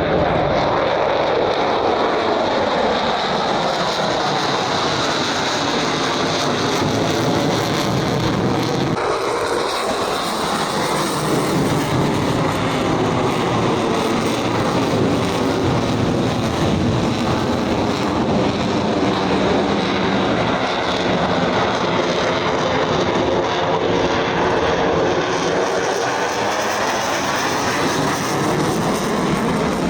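Loud, continuous engine noise of a display aircraft flying past. A sweeping, phasing whoosh falls in pitch over the first several seconds and slowly sweeps back up later on.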